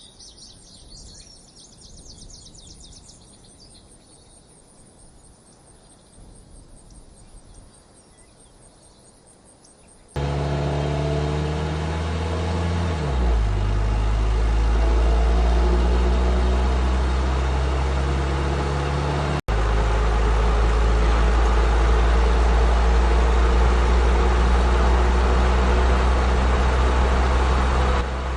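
Faint birdsong and insect chirps for about ten seconds, then a sudden switch to a car's engine and road noise heard from inside the moving car. The low engine hum drops in pitch once a few seconds after it starts and then runs steadily.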